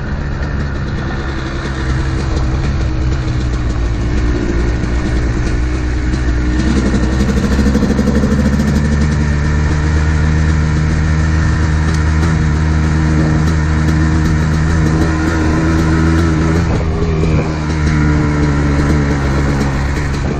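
Modded Kawasaki KDX220R two-stroke dirt bike engine with FMF exhaust running hard at speed, its pitch shifting with throttle and gear changes, with a brief drop near the end.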